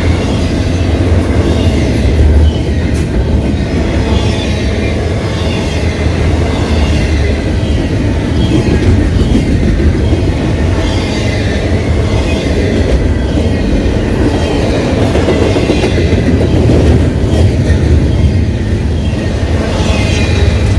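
Freight train cars rolling past at close range: a steady, loud rumble with the steel wheels clacking over the rail joints.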